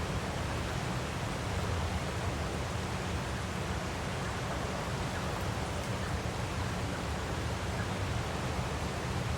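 Waterfall rushing steadily: an even hiss of falling water over a deep, constant rumble.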